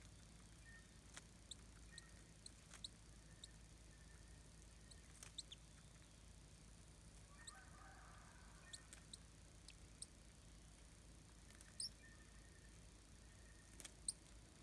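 Near silence with a dozen or so faint, very short high-pitched chirps and ticks scattered through it, the sharpest near the end.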